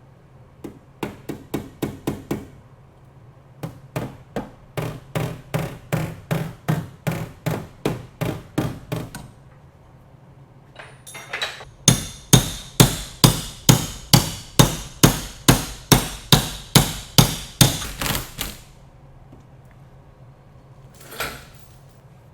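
Repeated hammer blows on a car's sheet-metal door and quarter panel while it is pulled on a frame machine, at about two to three strikes a second. They come in three runs, the last one loudest with a metallic ring, and a single knock follows near the end.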